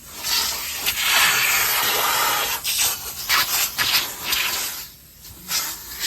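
Car wash equipment running with a loud, steady rushing hiss, broken by brief dips about five seconds in.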